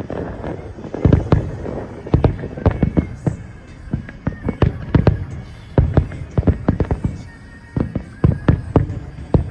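Fireworks shells bursting in quick, irregular succession, many loud booms with a low rumble between them. Music plays faintly underneath.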